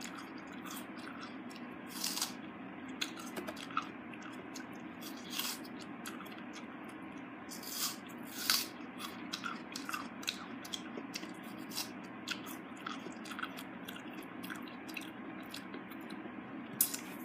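A person biting and chewing food close to the microphone: irregular crunching crackles and mouth sounds, with a few louder bites scattered through, over a steady low hum.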